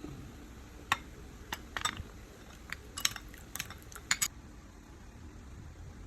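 Kitchen utensils clinking against dishware in a string of short, sharp clicks, bunched in quick pairs and triplets and stopping a little after four seconds in.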